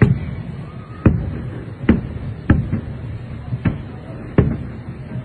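Aerial firework shells bursting: about six sharp booms, roughly one a second, each dying away quickly.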